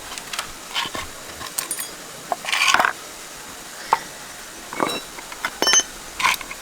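Scattered clinks, knocks and scrapes of metal tools and parts being handled during tractor repair work. A longer scrape comes a little before the middle, and a clink that rings briefly comes later on.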